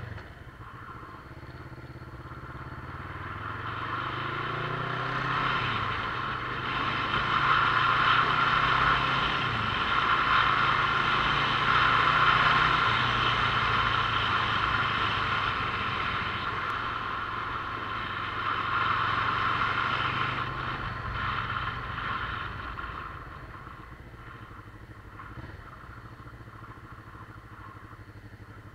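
Motorcycle engine running on the move. Its pitch rises early on as it accelerates, and a rushing noise builds with speed, stays loud for most of the ride, then drops away about three-quarters of the way through as it slows.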